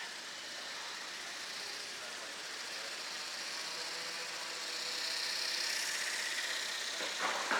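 Small electric RC model aircraft's motor and propeller whining in flight, growing louder about five seconds in as it comes nearer, over a steady outdoor hiss. A short, sharp sound comes near the end.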